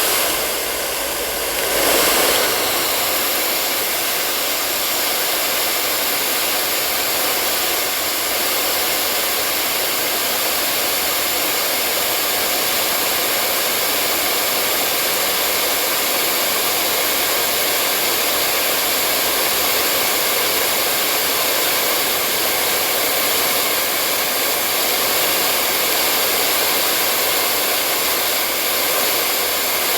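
Hair dryer running steadily: a constant rush of blown air with a faint motor whine. There is a brief dip and swell in level about two seconds in.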